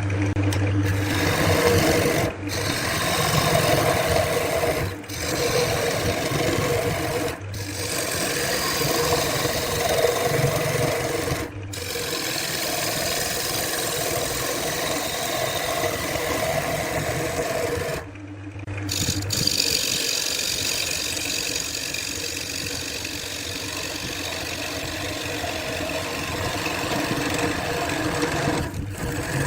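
Wood lathe running, its spinning workpiece rasping against a turning tool or abrasive held to it, over a steady low motor hum. The noise breaks off abruptly several times and resumes.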